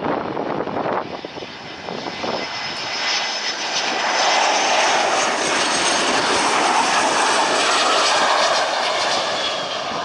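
Airplane engines growing louder over the first few seconds, then holding loud and steady with a thin high whine.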